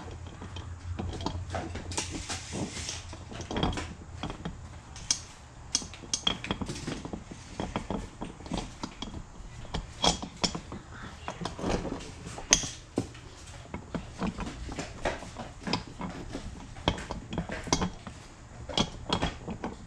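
Small metal parts clinking and tapping irregularly as a camshaft, its sprocket and the timing chain are worked into an ATV engine's cylinder head by hand.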